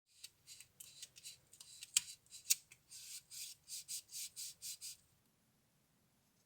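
Quick scratchy strokes of a small hand tool working on a small object, settling into about three strokes a second, with two sharp clicks partway through; the strokes stop about five seconds in.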